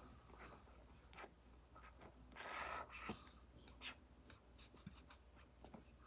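Apple Pencil Pro tip tapping and stroking on an iPad's paper-like matte screen protector: a series of light taps, with a longer scratchy stroke about two and a half seconds in.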